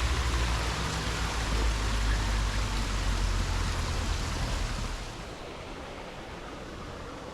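Running water of a small stream: a steady rushing hiss over a low rumble. The rumble falls away and the whole sound gets quieter about five seconds in.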